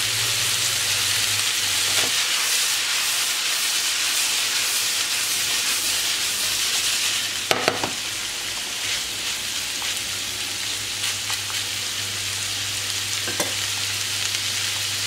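Diced zucchini, green beans, carrots, peppers and minced meat sizzling steadily as they sauté in oil in a frying pan. The vegetables are stirred now and then, with a sharp knock about seven and a half seconds in and another near the end.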